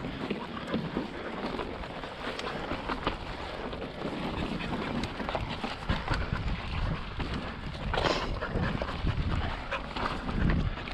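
Mountain bike riding over bare slickrock: wind buffeting the helmet camera's microphone, with the tyres rolling on rock and the bike's small rattles and clicks, and one louder rush of noise about eight seconds in.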